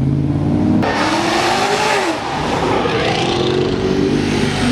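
Car engine revving hard as it accelerates, its note climbing and then dropping about two seconds in, over the steady rumble of idling engines.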